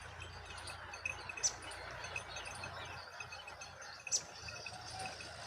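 Faint outdoor background of small bird chirps, with two short, sharp high-pitched chirps about a second and a half in and again about four seconds in.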